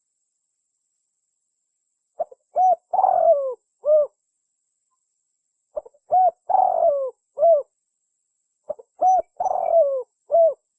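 Spotted dove (tekukur) cooing: three repeated phrases about three and a half seconds apart, each a couple of short coos, a longer falling coo, and a short closing coo.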